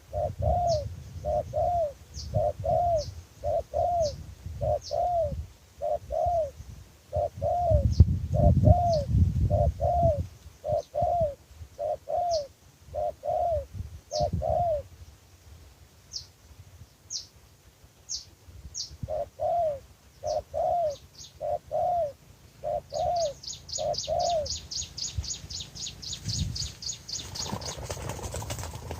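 A dove cooing in a long series of short, evenly spaced coos, a little over one a second, pausing about halfway through and then resuming. Thin high chirps from other birds sound over it, turning into a fast run of chirps near the end, with a low rumbling noise about eight seconds in.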